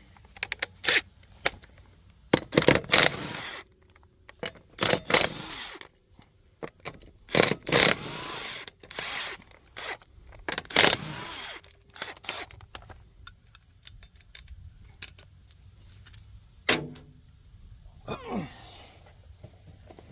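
Metal scraping and clunking from a Kawasaki Prairie ATV's front wheel hub and CV axle as they are worked by hand. The noise comes in four longer bouts with sharp clicks between them. It is the popping the owner puts down to a worn CV axle, or possibly to a bearing in the hub.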